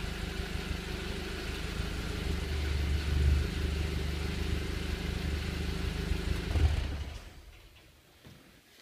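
Volkswagen Golf GTI Edition 35's turbocharged 2.0-litre four-cylinder idling through the standard exhaust, with short throttle blips about three seconds in and again just before seven seconds. The engine sound then stops, leaving near quiet.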